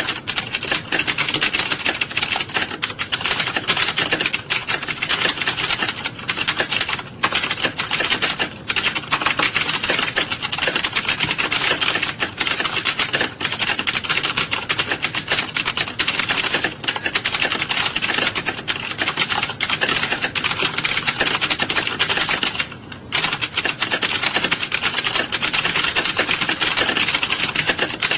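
Many keyboards being typed on at once in a typing class: a dense, continuous clatter of key clicks, with a brief lull about 23 seconds in.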